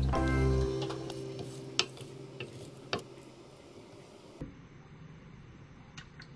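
Braun electric food chopper's motor whirring in a short pulse, grinding raw chicken into paste, then stopping after under a second. A few sharp plastic clicks follow as the chopper's lid and bowl are handled.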